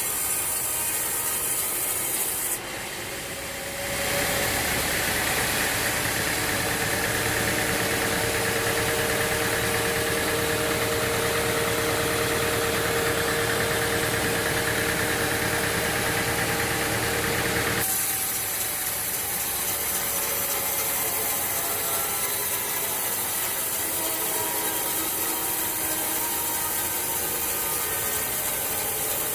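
Sawmill machinery running: an engine-driven saw with a steady motor hum and rasping noise. The sound changes abruptly about three seconds in, to a steadier, louder tone, and changes back near eighteen seconds.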